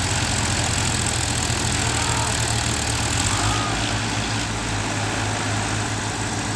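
Tractor diesel engine running with a steady low drone and a hiss of noise above it.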